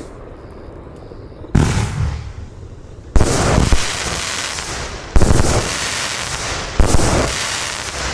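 Consumer F2 compound firework cake going off: four loud bangs spaced about one and a half to two seconds apart, each trailed by about a second of hiss that fades away.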